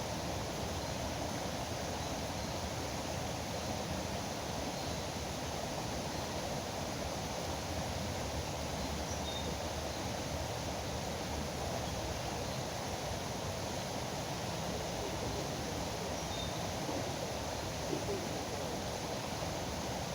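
River water rushing in a steady, even flow, with a few faint bird chirps over it.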